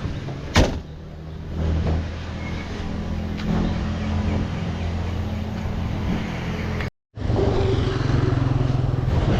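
1700cc air-cooled flat-four of a VW Baja Bug running under way, a steady engine note with a sharp knock about half a second in. The sound drops out completely for a moment near seven seconds, then the engine comes back a little louder.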